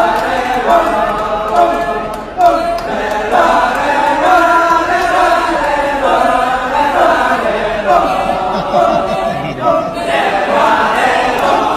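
Balinese kecak chorus: a group of voices chanting together a cappella in a continuous, rhythmic vocal chant.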